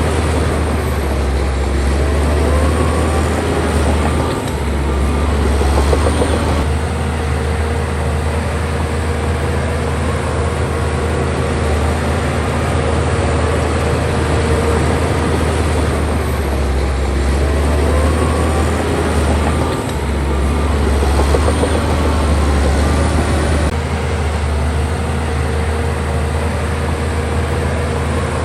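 Crawler bulldozer's diesel engine working under load with a steady low drone, over a clattering, grinding noise and a thin whine that comes and goes. The sound shifts in a pattern that repeats about every 13 seconds.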